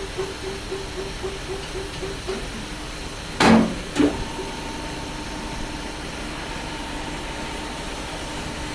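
A shop machine running, first with a hum that pulses about four times a second, then two loud sudden noises about three and a half and four seconds in, after which it settles into a steady hum.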